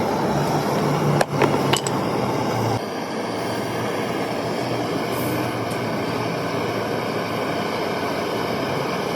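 A few sharp knocks in quick succession about a second in, over a steady background noise.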